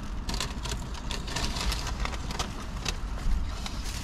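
Food packaging crinkling and rustling, with scattered small clicks of eating and handling, over a steady low hum.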